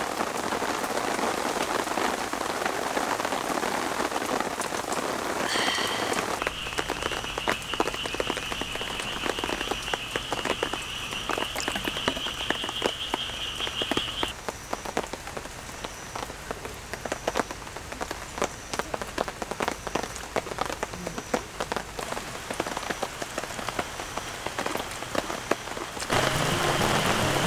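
Rain falling steadily, with many single drops striking close by. From about six seconds in, a steady high trill joins for several seconds, and faint short high pips repeat about once a second.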